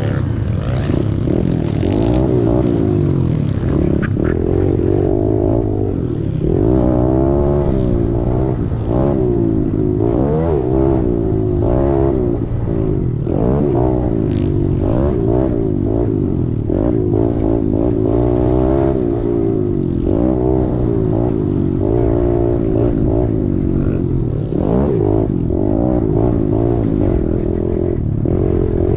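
Kawasaki KLX110's small four-stroke single-cylinder engine being ridden hard around a motocross track, its revs rising and falling again and again as the rider throttles and shifts through the lap.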